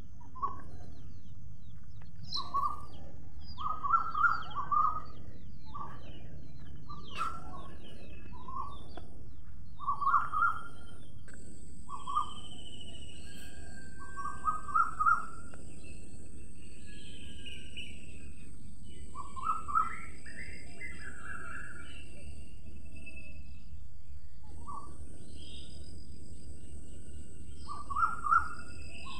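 Birds chirping in short bursts every second or two over a steady low background noise, with a thin steady high-pitched tone joining about a third of the way in.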